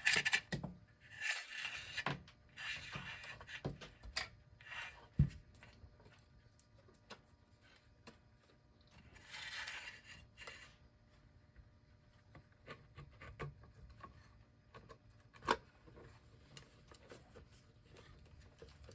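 Hands working parts into a wooden clock case: intermittent rubbing and scraping with scattered light clicks, a sharper knock about five seconds in, and a brief rustle around the middle.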